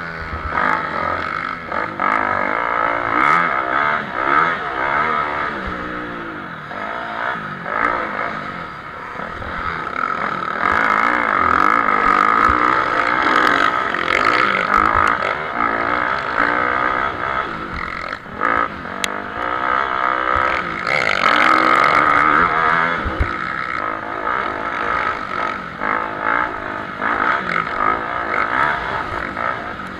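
Several motocross bikes racing round the track, their engines revving up and down with each gear change and throttle blip. The bikes grow loudest twice as they pass close by.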